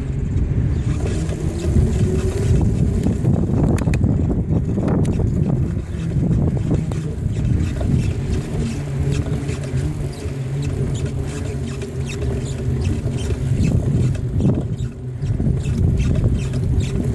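Wind buffeting the microphone and the rumble of a bicycle ride, with a constant run of light rattling clicks.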